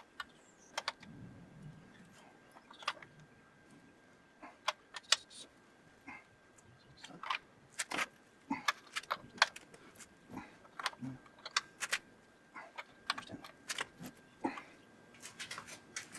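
Metal tools and bolts being handled during engine assembly, giving many short, irregular metallic clinks and clicks, some in quick little clusters.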